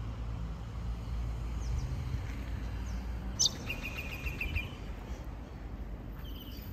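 Outdoor ambience with a steady low rumble, and a bird calling about halfway through: a sharp high note, then a quick run of short repeated chirps lasting about a second, with a few fainter notes near the end.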